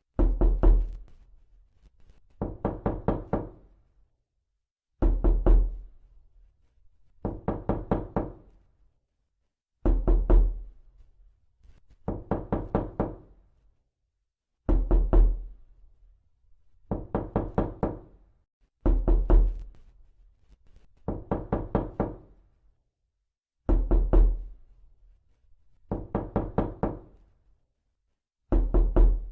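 Repeated knocking in quick bursts of about five to seven raps, each burst about every two and a half seconds, with a pause between bursts.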